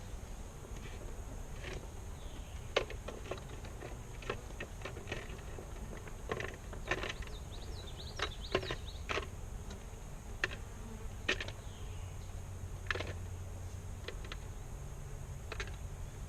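Honeybees buzzing around an open hive in a steady low hum. Scattered short clicks and knocks come over it, most of them in the middle of the stretch.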